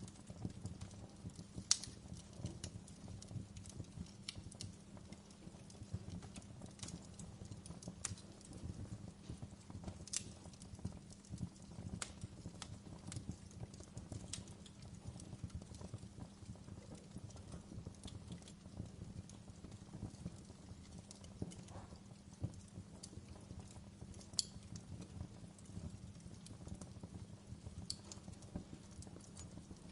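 Fire crackling in a fireplace: a steady low rumble with frequent small pops and snaps throughout, and a few sharper, louder pops, the loudest about two seconds in.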